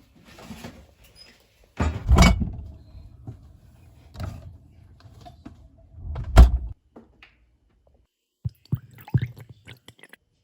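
Two heavy thuds about four seconds apart, then a few lighter clicks and knocks near the end, typical of a door or cupboard being shut in a small room.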